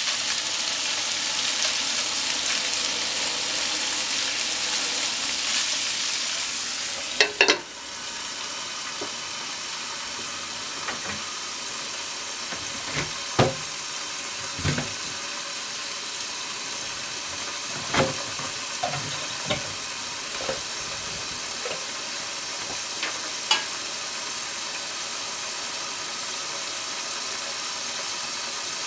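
Meat-wrapped potato sticks sizzling loudly in a frying pan. About seven seconds in, a couple of knocks come as a glass lid goes on. After that the frying hisses more quietly under the lid, with scattered pops.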